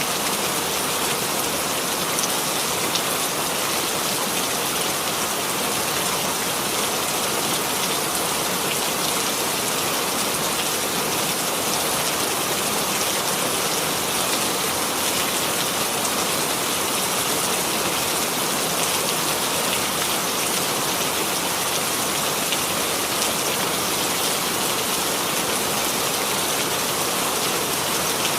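Steady rainfall: a constant, even hiss of rain falling on a surface, with no thunder or other events.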